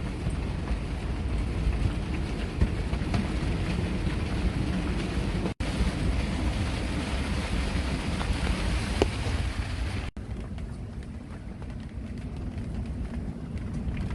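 Strong storm wind buffeting the microphone on a boat, a steady rushing noise. It breaks off briefly twice where clips are joined.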